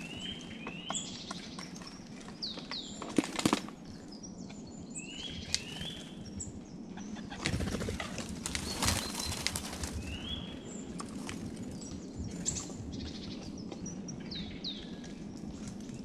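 Small songbirds chirping and squabbling at close range, with short rising and falling calls and a couple of sharp taps. A louder flurry of wingbeats comes about halfway through.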